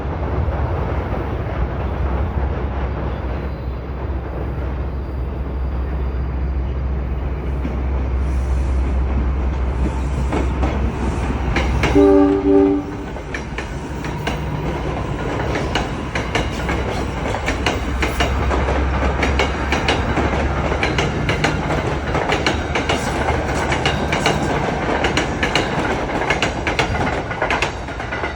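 Electric trains running on rails with a steady rumble. A short horn blast, under a second long, sounds about twelve seconds in. After that the wheels clatter over rail joints in quick clicks to the end.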